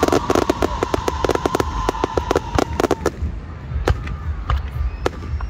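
Aerial fireworks bursting: a rapid run of crackling pops for about three seconds, then scattered single pops and bangs.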